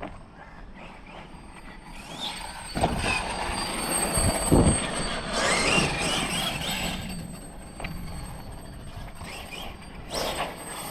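Losi 5ive TE 3.0 electric 1/5-scale RC truck being driven: its motor and drivetrain whine, rising and wavering in pitch around the middle, over a steady rush of noise, with a couple of short thumps.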